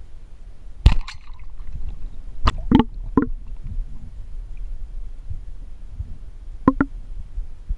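Low, muffled water rumble with several sharp knocks and clicks: one about a second in, three close together a little later, and a pair near the end.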